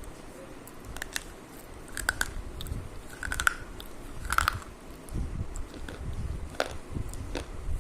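Someone biting and chewing crunchy food close to the microphone: a string of short sharp crunches, the loudest about four and a half seconds in, with softer chewing between them.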